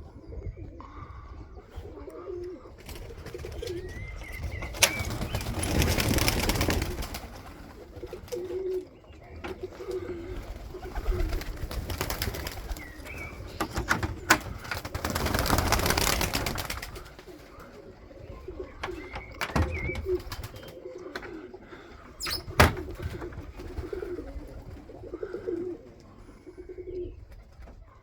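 Pigeons cooing again and again, with two spells of wing-flapping lasting a couple of seconds each, around five seconds in and again around fifteen seconds in, and a couple of sharp knocks.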